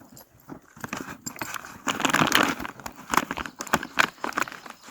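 Pack animals eating grain, with irregular crisp crunches and chewing.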